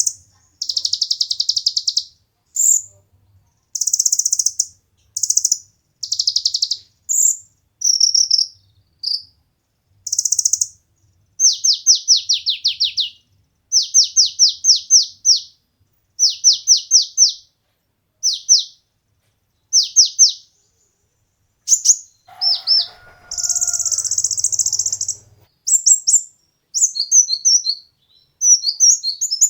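Kolibri ninja (konin) sunbird singing: high-pitched chirps and short buzzy trills, then runs of quick downward-sweeping notes, ending in fast twittering.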